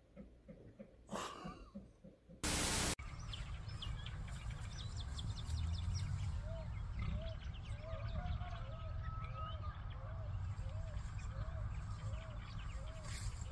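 Songbirds calling outdoors: a scatter of quick high chirps, then a lower call repeated evenly a little under twice a second, over a low wind rumble on the microphone. Early on, a short loud burst of static.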